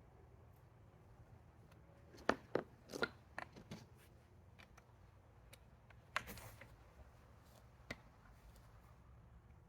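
Sharp knocks and scrapes of handling: a cluster about two seconds in and another with a short rasp around six seconds, with a single click near the end, over a quiet steady low hum. No engine is running.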